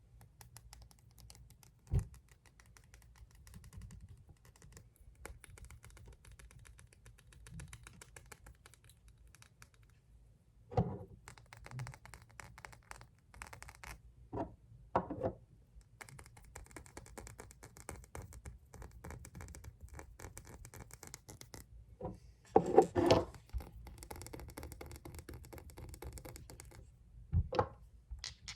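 Fingernails tapping and scratching fast on glass nail polish bottles, a rapid patter broken by a few louder knocks.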